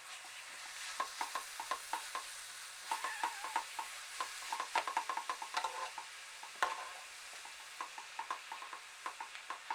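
A utensil stirring and scraping food in a frying pan, with many quick irregular clicks against the pan over a light sizzle.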